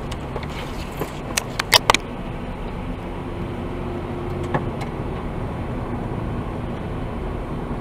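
A car driving on the road, with steady low road and engine noise. A few short sharp clicks come between one and two seconds in.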